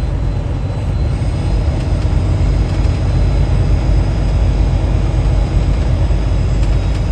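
Steady drone of a semi truck's diesel engine and road noise heard inside the cab, deep and even throughout.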